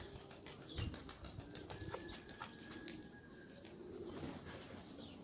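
Domestic pigeons faintly cooing and flapping their wings, with a quick run of light clicks in the first couple of seconds.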